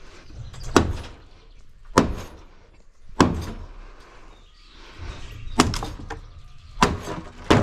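Heavy blows struck on wooden deck lumber during demolition, about six sharp knocks roughly a second apart with a short pause midway.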